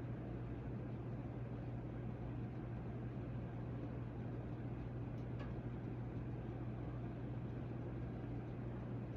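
Hampton Bay Carousel 52-inch ceiling fan, made by CEI, running steadily: a constant low motor hum over an even rush of air.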